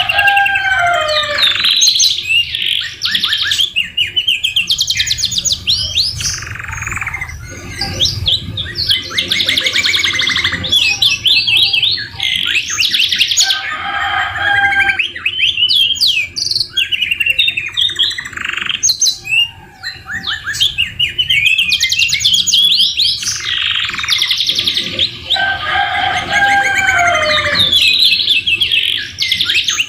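Domestic canary singing almost without pause: rapid rolling trills of fast repeated notes, whistled notes sliding up and down, and short chirps. The song is filled with phrases copied from the white-rumped shama.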